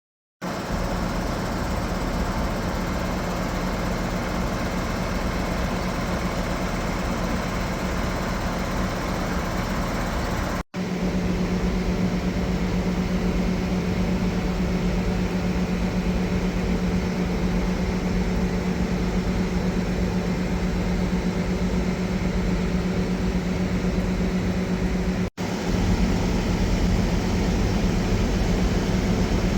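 New Holland CX8.90 combine harvester's 8.7-litre diesel engine running steadily, with a steady low hum. It starts about half a second in and cuts out for an instant twice, and is a little louder after the first break.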